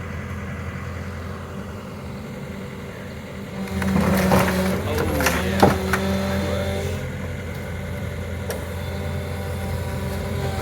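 Caterpillar 313 excavator's diesel engine running steadily, then working harder under hydraulic load about four seconds in, with several sharp cracks and a loud knock just under six seconds in as metal gives way.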